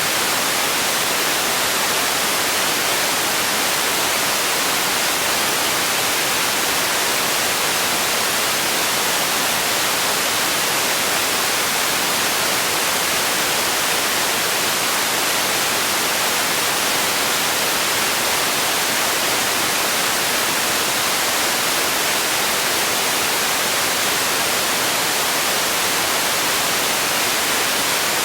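Steady white noise: an even, unbroken hiss, strongest in the treble, with no change in level.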